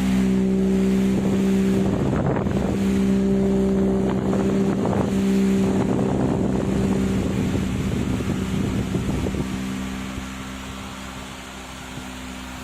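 A small motor running with a steady hum and a rough, uneven rattle on top, dying down after about ten seconds.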